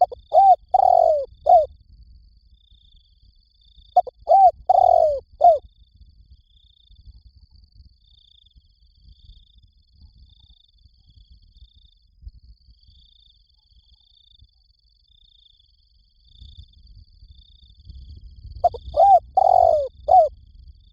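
Spotted dove cooing: three phrases of four or five short, hooting notes each, one near the start, one about four seconds in and one near the end, with long gaps between.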